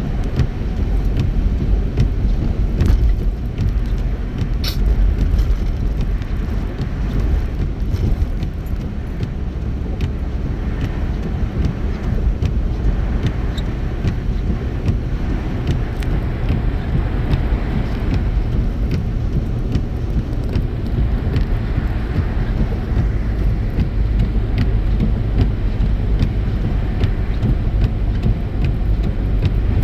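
Steady road noise inside a moving car on a wet, snowy highway: a continuous low rumble of tyres and engine, with faint scattered ticks.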